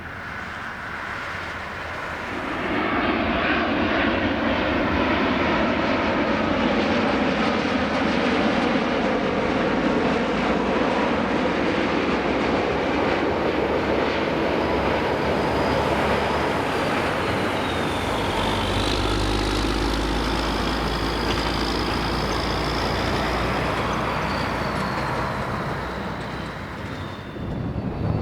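Jet engines of a Boeing 787 (GE GEnx turbofans) passing close on arrival: a loud, sustained jet rumble that swells in about two seconds in, with a high engine whine that glides down in pitch past the midpoint and a deeper rumble that grows from there, fading briefly near the end.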